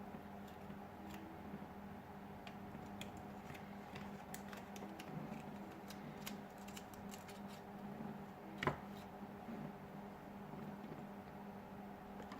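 Faint scattered clicks and taps of small tools and parts being handled on a smartphone under repair, over a steady electrical hum, with one sharper click a little before nine seconds in.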